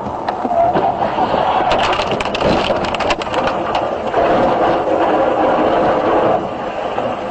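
Car crash: a burst of sharp cracking and crunching lasting about two seconds, over steady road and engine noise from inside the car.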